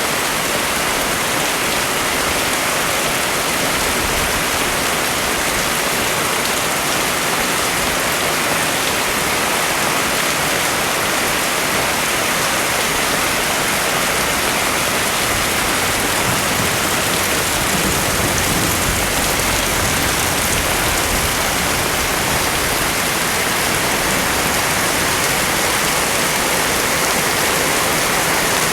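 Heavy rain falling steadily, a dense even hiss of rain pouring onto surfaces.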